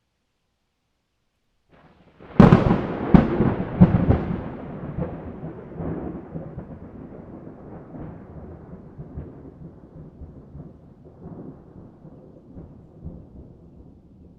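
A thunderclap. After about two seconds of silence a sharp crack hits, two more cracks follow within two seconds, and a long rumble fades away slowly.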